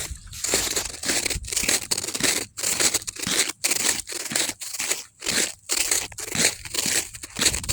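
Footsteps crunching through icy snow at a steady walking pace, about two steps a second.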